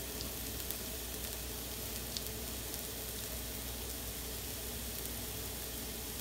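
Dosa batter and ghee sizzling steadily in a hot cast-iron skillet, with a couple of faint ticks early on.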